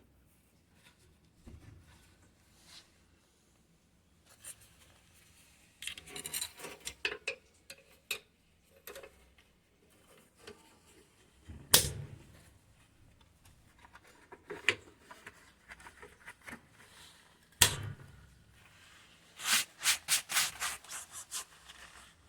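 Hands working on washing-machine parts: rubbing and scraping with scattered clicks, two sharp metal knocks, one near the middle and one later, and a quick run of clicks near the end. No motor is running.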